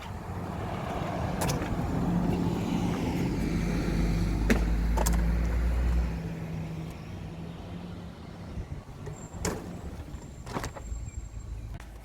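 Motor vehicle engine rumbling low, building over the first seconds and dropping away sharply about six seconds in, with a few sharp clicks.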